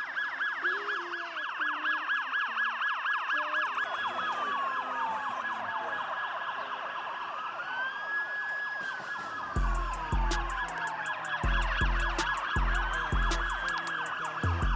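Police sirens: a fast yelp that switches about four seconds in to slow rising and falling wails, with more than one siren overlapping. About two-thirds of the way through, a hip-hop beat with heavy bass hits comes in under them.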